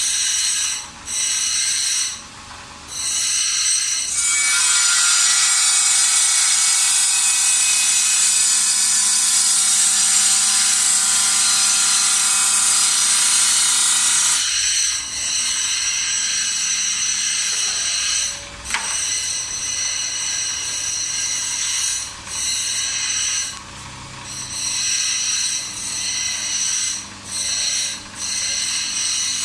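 Opal being ground on a lapidary grinding wheel: a steady high whine of the machine and stone, louder and harsher from about four to fourteen seconds in, with several short drops and one sharp click a little later.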